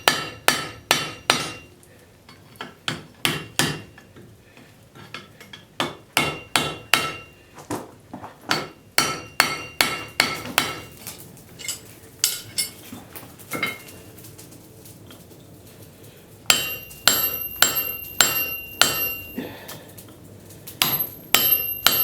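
Hand hammer striking a railroad spike on an anvil to take an angle out of the iron. The blows come in quick bursts of several strikes with short pauses between them. In the later bursts the anvil rings clearly after each blow.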